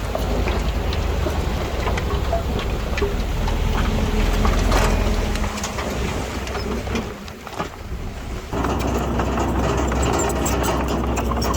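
Bulldozer diesel engine running under working load, with clattering from the machine. The level dips briefly about seven seconds in, then a steady engine note comes back abruptly.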